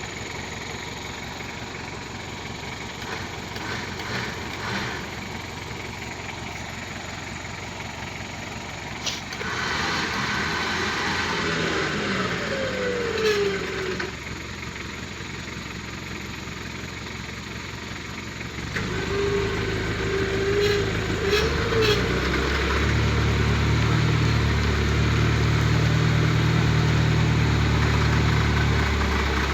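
Truck engine running. It grows louder about nine seconds in and drops back, then from about two-thirds of the way through runs louder and steady with a deep, even drone.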